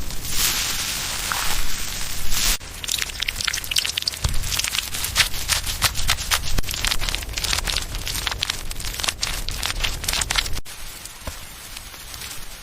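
Rain: a steady hiss of rain at first, then after an abrupt change a dense patter of drops striking a nearby surface with many sharp ticks, dropping to a quieter patter after another abrupt change near the end.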